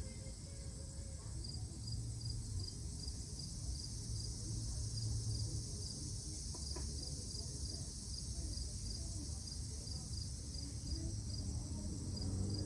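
Insects chirping steadily: a high, even trill with a regular pulse a few times a second, over a low rumble.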